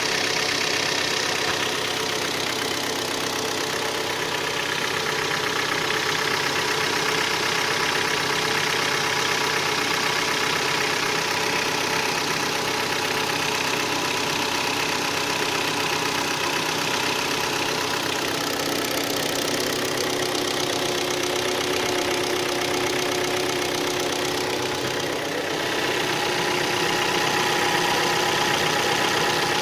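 Hyundai G4KD 2.0-litre four-cylinder petrol engine idling cold with a steady extraneous knock, which the owner traces to scoring in cylinders 2, 3 and 4. The sound dips briefly about 25 seconds in, then runs slightly louder.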